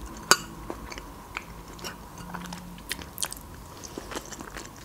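Close-miked chewing of a soft baked casserole: small wet mouth clicks and smacks, with one sharper click about a third of a second in.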